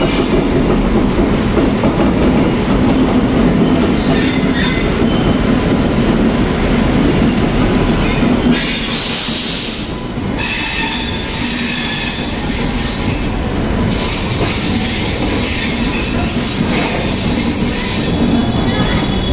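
Passenger train coaches rolling past close by with a heavy low rumble and wheel clatter. About halfway through, a loud high squeal and hiss of wheels and brakes rises and carries on as the train slows along the platform.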